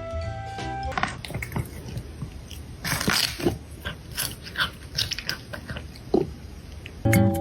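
A cat chewing, with irregular crunches, the loudest a little past the middle. A short stretch of music ends about a second in, and guitar music starts just before the end.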